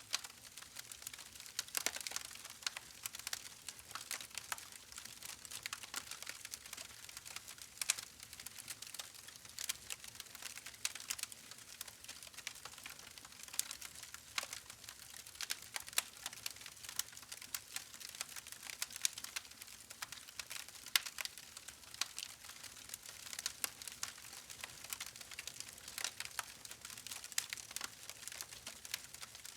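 Wood fire crackling: irregular sharp pops and snaps over a soft hiss of burning.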